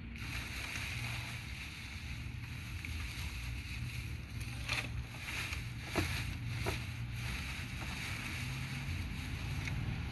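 Wheat straw being handled and pressed into a plastic milk crate: steady rustling, with three sharp clicks in the middle, the loudest about six seconds in, over a low steady rumble.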